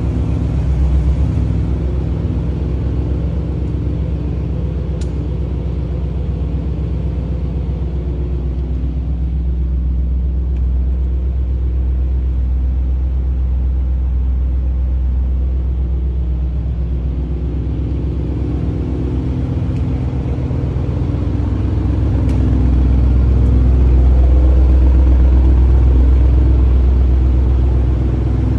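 Audi RS Q8's twin-turbo V8 idling steadily, with a deep low rumble. It swells a little louder for a few seconds near the end.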